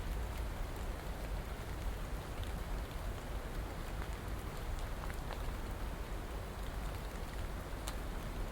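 Steady rain falling, a dense even hiss with a deep rumble underneath and scattered ticks of single drops.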